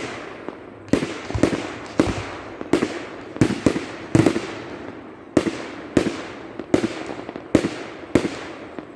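Aerial fireworks bursting in a rapid barrage, sharp bangs coming one to two a second, each with a short echo.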